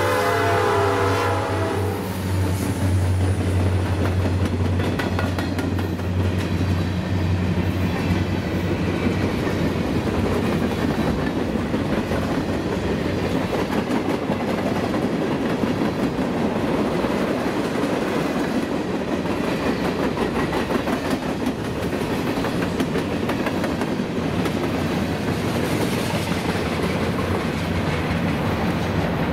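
Norfolk Southern freight train passing at close range: a multi-tone diesel locomotive horn ends about two seconds in, the locomotives' diesel engines give a deep hum as they go by, and then the freight cars roll past with steady wheel-on-rail noise and clicking over the rail joints.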